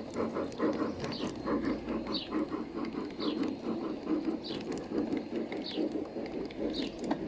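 G scale garden model train running on its track, a rhythmic clatter of about five beats a second, with short high chirps from birds over it.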